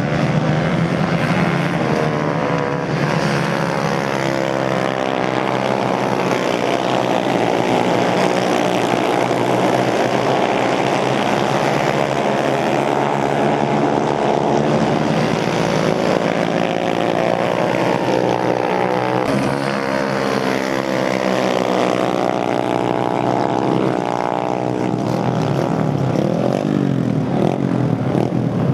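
Racing motorcycle engines running hard, several pitches sliding up and down together as the bikes accelerate, shift and pass.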